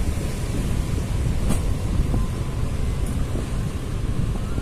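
Cocanada AC Superfast Express running, heard from on board at an open doorway: a steady low rumble of the wheels on the rails with wind buffeting the microphone, and a couple of faint clicks.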